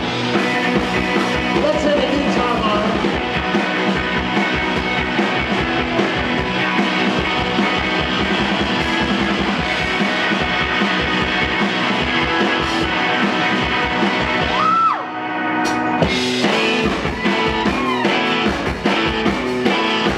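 Live rock band playing an instrumental passage: drums, electric guitars and sliding, wailing lines. The band thins out briefly about fifteen seconds in, then comes back in full.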